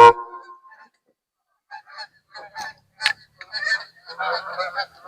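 Goose honking: after a short lull, a run of short, overlapping honks and clucks begins about a second and a half in and goes on to the end.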